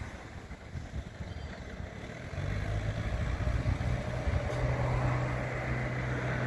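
Engine of a drill rig truck running. About two seconds in, its steady low hum comes in and gets louder, over wind rumble on the microphone.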